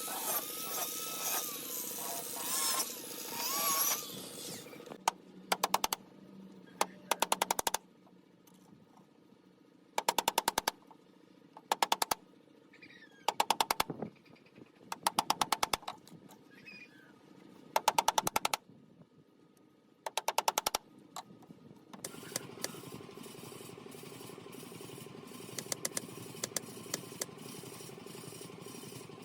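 A power tool in palm-wood bed building, running steadily at first, then giving short bursts of rapid mechanical hammering, each under a second, about eight or nine times with pauses between. Near the end a steady motor hum runs on.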